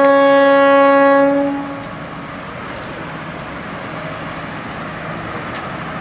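A ship's horn, most likely the fire boat's, sounding one long steady blast that cuts off about a second and a half in. A steady rushing noise carries on after it.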